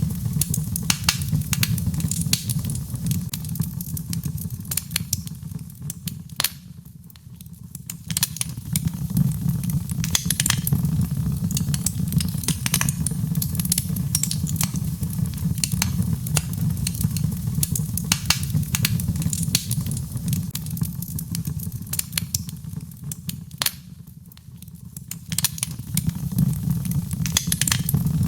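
Birchwood fire burning in a fireplace, crackling and popping continuously over a steady low rumble of flame. The crackles thin out briefly twice, about seven seconds in and again later.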